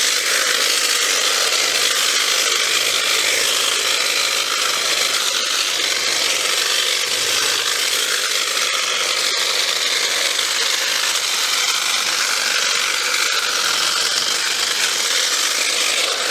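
Battery-powered chainsaw running steadily without a break, its chain cutting through brush.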